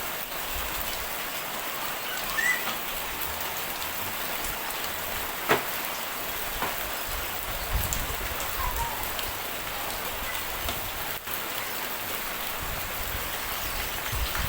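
Steady rain falling and pattering on surfaces, with a few louder individual drops; one sharper tap comes about five and a half seconds in.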